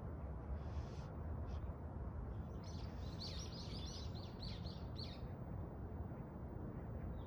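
A small bird chirping: a quick run of about ten short, high notes lasting about two seconds, starting about three seconds in, over a steady low outdoor rumble.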